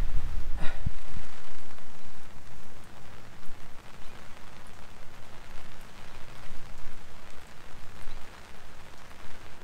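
Rain falling steadily, an even hiss, louder with a low rumble and a couple of knocks over the first two seconds or so.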